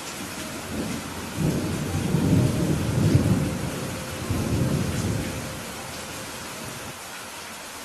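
Steady rain hissing, with a rumble of thunder that swells about a second and a half in and dies away a few seconds later.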